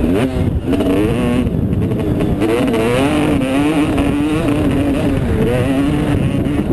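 Motocross bike engine running hard, its revs rising and falling again and again as the rider works the throttle and gears around the track.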